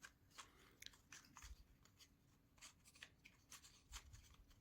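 Near silence with faint, scattered light clicks and scrapes of thin basswood model parts being handled and pushed into place.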